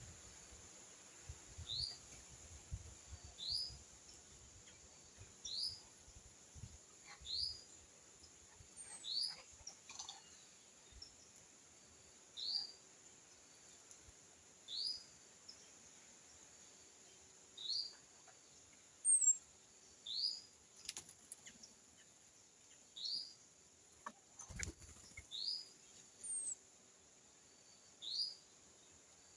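A wild bird repeating a short, quickly rising call about every two seconds, with a few fainter high chirps from other birds over a steady high hiss. There is one sharp knock a little past the middle.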